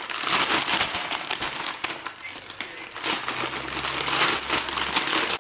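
Takeout wrapping around a donair crinkling and rustling continuously as it is handled and unwrapped.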